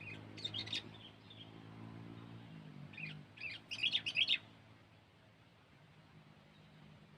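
Sooty-headed bulbul (kutilang) calling: a short burst of chirps at the start, then a louder run of chirps about three to four seconds in. A low hum sits underneath for the first three seconds.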